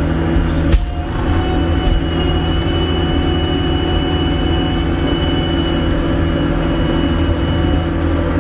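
Gehl 5625SX skid steer's diesel engine running steadily, with a thin high whine over it and a single sharp clunk just under a second in.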